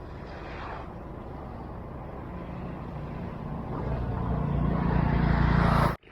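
A motor vehicle's engine running as it approaches, growing steadily louder over the last few seconds, then cutting off suddenly.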